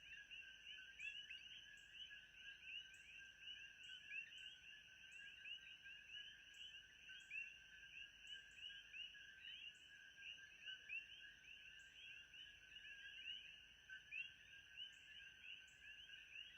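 Faint chorus of frogs: many short rising chirps overlapping without pause, with a steady high tone and a faint, regular ticking above it.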